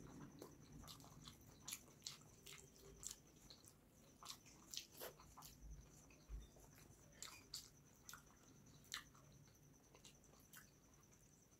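Faint, close-miked chewing of rice and fish curry: an irregular run of short wet mouth clicks and smacks.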